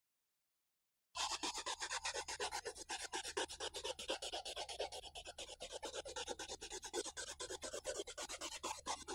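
Rapid, even scratching or rubbing strokes, about six a second, starting about a second in.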